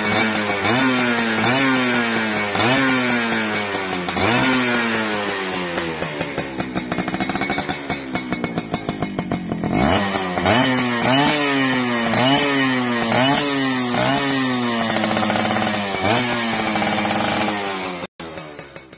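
Yamaha F1ZR two-stroke engine through a racing exhaust, revved in quick repeated throttle blips, each one rising and falling in pitch. About a third of the way in it settles to a lower, rattly run, then revs hard and goes back to blipping. The sound cuts off near the end.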